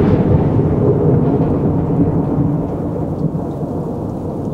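Thunder sound effect: a long rolling rumble that slowly fades.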